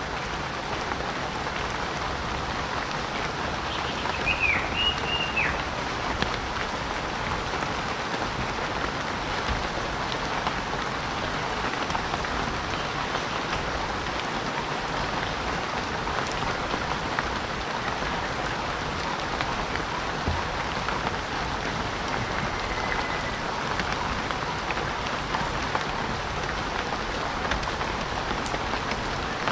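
Steady heavy rain falling in a rainforest, an even dense patter. About four seconds in, a short whistling call rises and falls over the rain.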